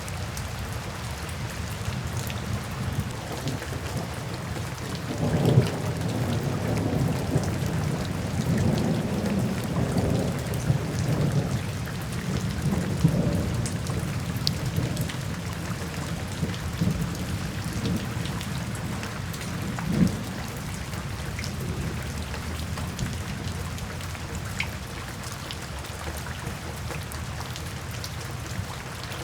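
Steady rain with rolling thunder: a low rumble builds about five seconds in and rolls on for several seconds, and a shorter, sharper clap comes about twenty seconds in.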